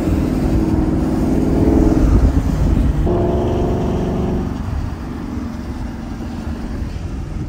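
Ford Mustang GT's 5.0-litre V8 with a Ford Performance exhaust pulling under throttle: its note rises over the first two seconds, jumps higher about three seconds in, then eases off and fades under wind and road rumble.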